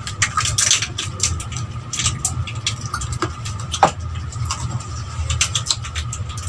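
Close-up chewing, sucking and lip-smacking while gnawing on chicken feet held by hand, a run of small wet clicks, over a steady low hum.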